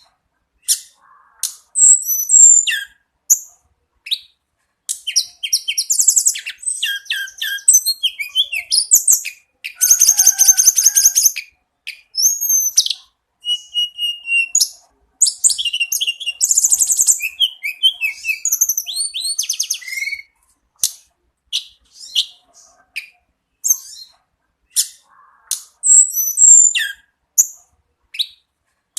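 Tledekan gunung (Sunda robin) singing in full, continuous song. It gives varied high-pitched phrases of whistled notes, chirps and fast buzzy trills, in bursts with short pauses between them.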